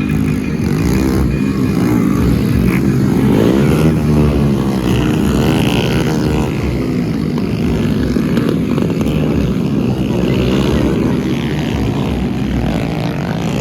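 Small four-stroke Honda Pop 100/110 motorcycle engines revving hard, their pitch rising and falling again and again as the throttle is worked, with more than one engine sounding at once.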